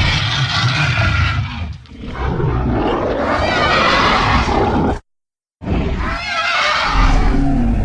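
Giganotosaurus roar sound effects, a series of long, loud creature roars. One ends just under two seconds in and a second follows at once until about five seconds in. After a brief cut to silence, a third roar starts and runs on.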